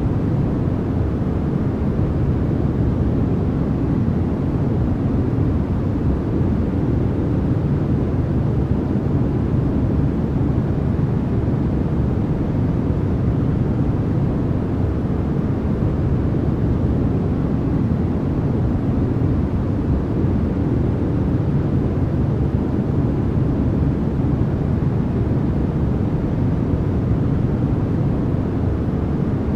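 Continuous sleep noise: an even, unchanging hiss, weighted toward low pitches so that it sounds deep rather than bright.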